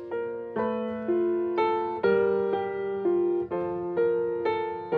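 Piano playing a slow, even run of chords, a new chord about twice a second, each ringing and fading before the next.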